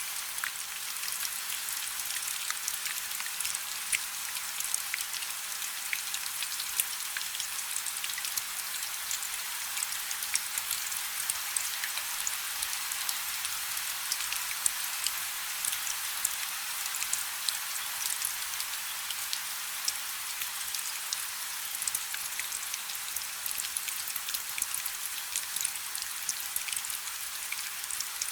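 Steady rain falling on a river: an even hiss thick with the fine ticks of countless drops hitting the water, never letting up.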